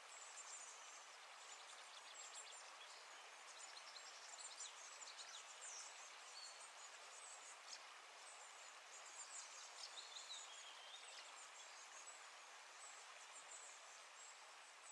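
Faint outdoor ambience: many short, high bird chirps and a few brief whistled notes over a steady low hiss.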